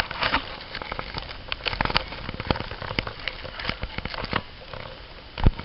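Snow crunching and crackling under shovels and boots: dense, irregular clicks, with one heavy thump about five and a half seconds in.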